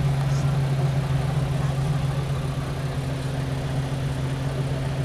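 Car engine running steadily, a low even drone with no revving.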